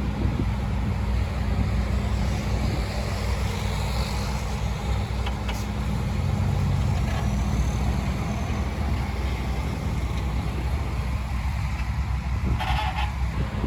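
Diesel engine of heavy earthmoving equipment (bulldozer or dump truck) running steadily at working revs, with a brief harsher, higher screech near the end.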